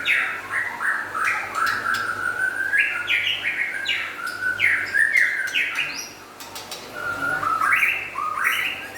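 White-rumped shama (murai batu) song: a fast, continuous string of loud falling whistled notes mixed with sharp clicking chatter, easing off briefly about two thirds of the way through before picking up again.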